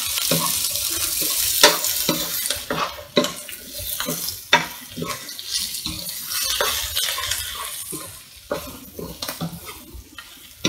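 Sliced onions, green chilies and freshly added capsicum sizzling in a frying pan while a slotted spatula stirs them, scraping and knocking against the pan many times. The sizzle grows fainter over the last few seconds.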